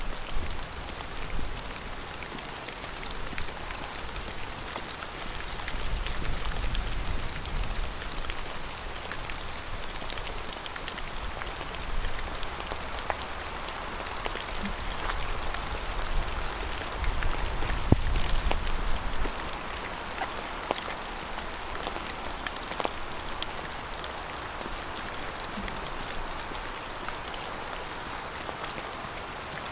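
Steady rain falling, an even hiss broken by many sharp, separate drop ticks. A low rumble rises twice, around six to eight seconds in and again around sixteen to nineteen seconds.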